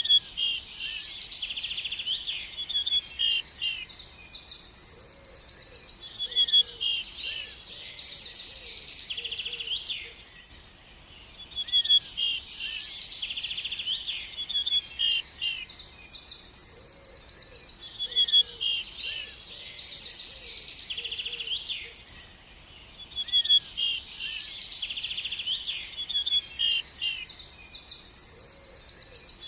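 Songbird singing high, rapid trills and chirps. The song breaks off briefly twice, and the same sequence of phrases comes round again about every eleven and a half seconds.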